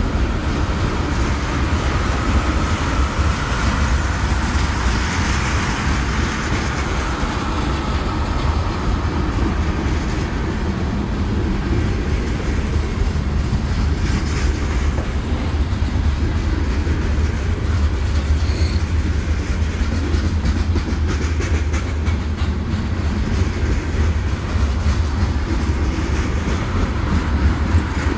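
Freight cars of a CSX mixed freight train rolling past: a steady rumble of the tank cars and covered hoppers, with wheels clicking over the rail joints.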